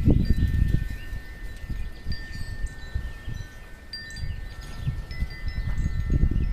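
Wind chimes ringing, several long tones overlapping and sustaining for seconds. Gusts of wind buffet the microphone with a low rumble, strongest at the start and near the end.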